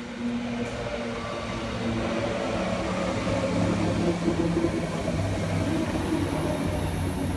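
Class 319 electric multiple unit at the station, giving a steady electric hum of several low tones over a hiss, a little louder in the middle.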